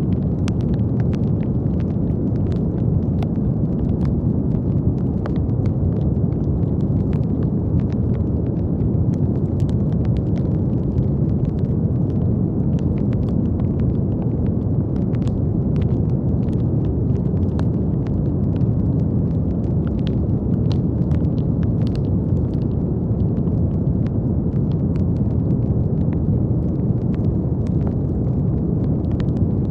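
Brown noise: a steady, deep hiss weighted toward the low end. Faint, irregular little clicks or crackles are sprinkled through it.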